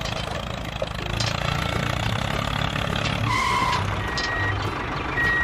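Small vehicle engine running steadily, with electronic reversing-alarm beeps alternating between a lower and a higher tone from about three seconds in.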